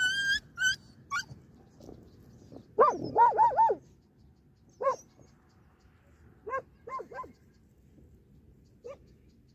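Dogs giving short, high yelping barks: a quick run of four about three seconds in, then a single yelp, a run of three and a last one near the end. High whistle-like notes trail off in the first second.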